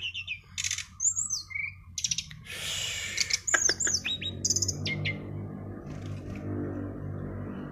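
A songbird singing a varied, fast song of sharp gliding whistles, rapid trills and harsh rasping bursts. A low steady hum runs underneath in the second half.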